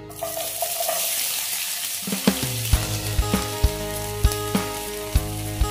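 Food sizzling in hot oil in a pan, the hiss starting suddenly. Background music with a steady beat comes back in about two seconds in.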